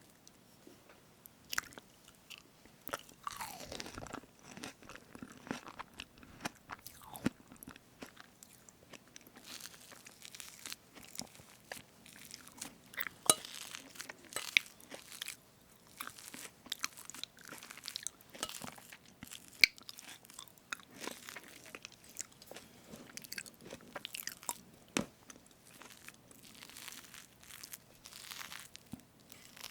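Close-miked eating of strawberry whipped-cream cake: wet chewing and mouth sounds with many irregular small clicks.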